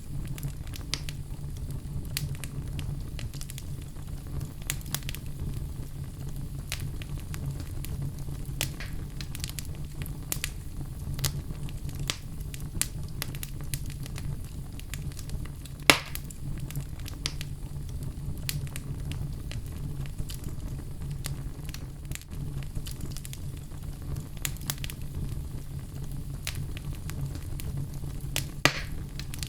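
Fire burning in a fireplace: a steady low rumble with frequent small crackles and occasional sharp pops, the loudest about halfway through and another near the end.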